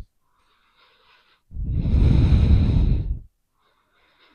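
A person's deep breath close to the microphone: one long, loud breath lasting nearly two seconds from about a second and a half in, with a fainter breath on either side of it.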